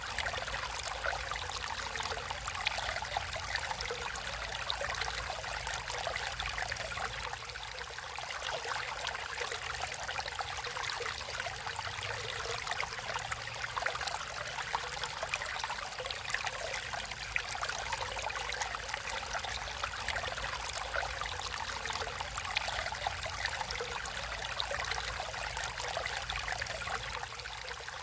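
A stream of water flowing and trickling steadily, with many fine splashes and babbling.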